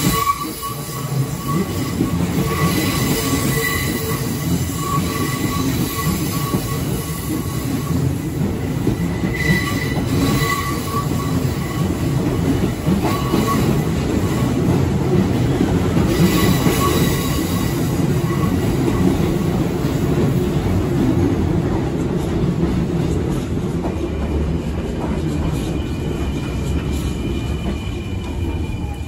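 A Kintetsu train running along the sharply curved station track with a steady rumble, its wheels squealing on and off against the curve. Near the end, a falling whine as a second train slows on the other track.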